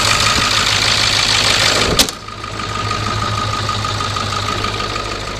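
Ford 7.3 diesel V8 with an S468 turbo idling steadily, cold, after a cold start. About two seconds in there is a single sharp slam, and after it the engine sounds quieter and more muffled.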